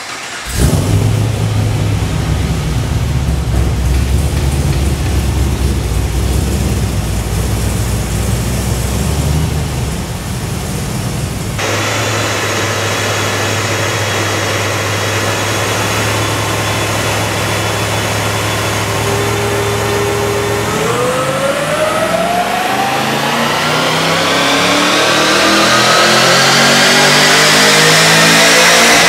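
Holden VE E2 GTS's 6.2-litre LS3 V8, fitted with a Magnuson 2300 supercharger and twin 3-inch exhaust, firing up and running at a low idle. Then, on a chassis dyno, it idles before a power run begins about two-thirds of the way through, the revs climbing steadily and the sound growing louder until the end.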